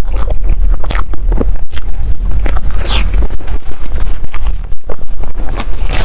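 Close-miked chewing of soft desserts: many wet clicks and smacks over a steady low rumble.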